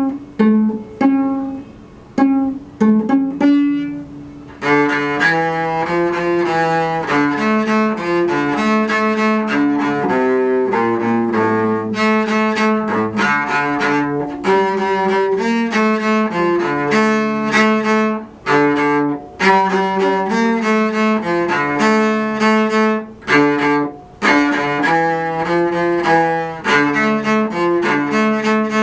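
Cello playing: short plucked pizzicato notes for the first four seconds or so, then a bowed melody of held notes.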